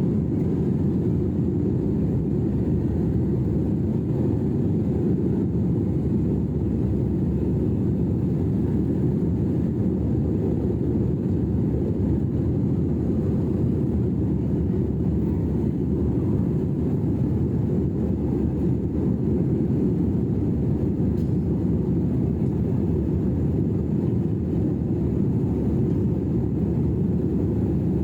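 Airliner cabin noise: a steady, even low roar of the jet engines and airflow as heard inside the passenger cabin.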